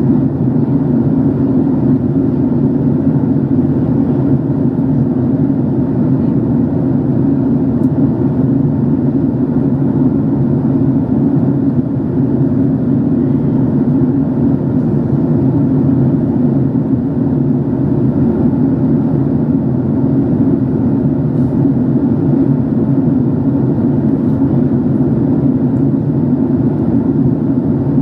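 Steady drone inside the passenger cabin of a Boeing 767-300 in flight: jet engine and airflow noise, deep and unchanging.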